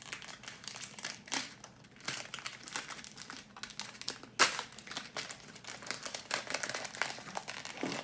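A plastic blind-bag packet crinkling and rustling as it is pulled open by hand, with a run of small irregular crackles and one louder sharp crack about halfway through.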